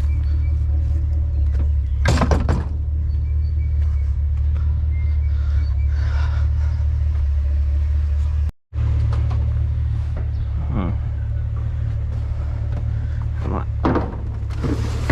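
Steady low vehicle rumble, with a short clatter about two seconds in. The sound drops out for an instant a little past halfway.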